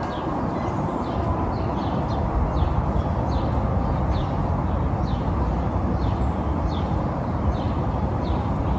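A bird repeating a short, high, falling chirp every second or so over a steady low rushing noise.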